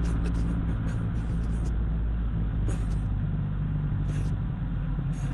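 Steady low rumble of a car on the move, engine and road noise, with short hissy flutters now and then.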